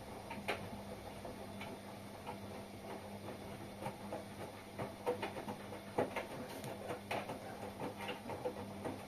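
Washing machine running a wash: a steady hum with irregular clicks and light knocks, the strongest about six and seven seconds in.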